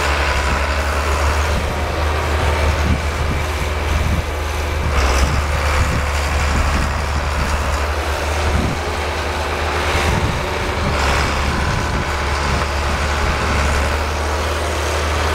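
Blizzard wind blowing hard and buffeting the microphone: a steady, loud, rough rumble with gusts swelling about five seconds in and again about ten seconds in.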